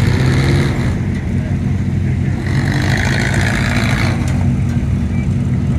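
Car engines running as vehicles drive off at low speed, a deep, steady exhaust rumble.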